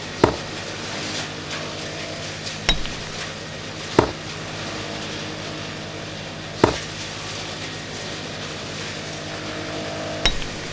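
Five sharp knocks of something hard, a few seconds apart, over a steady low hum.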